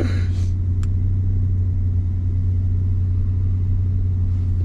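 Turbocharged Mazda MX-5's four-cylinder engine idling steadily, a low even drone with no revving.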